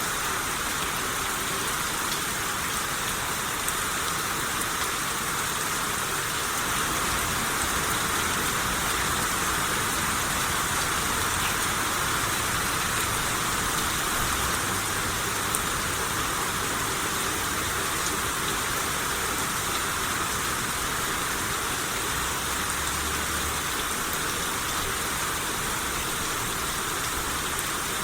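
Steady rain shower falling on surfaces, an even hiss with no let-up.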